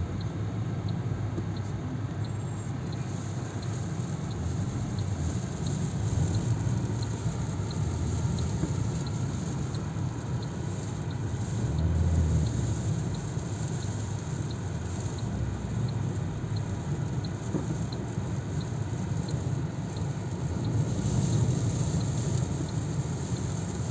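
Steady rumble of a car driving, heard from inside the cabin, with a faint regular ticking about one and a half times a second.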